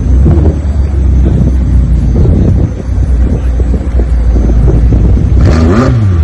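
Car engine rumbling low with wind buffeting the microphone; near the end an engine revs briefly, its pitch rising and then falling.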